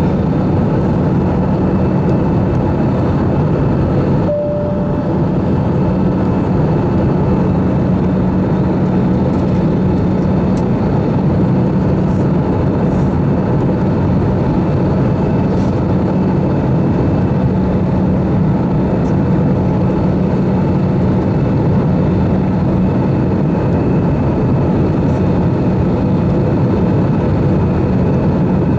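Steady cabin noise of an Airbus A320-214 in flight on approach: the rush of air and the hum of its CFM56 turbofan engines, with a constant low drone. A short single tone sounds about four seconds in.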